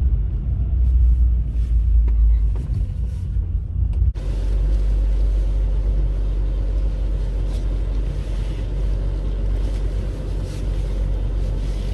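1986 Volkswagen Golf Mk2 engine running with a deep, steady rumble, the sound the owner calls bad. About four seconds in, the sound changes abruptly and becomes more open and hissy.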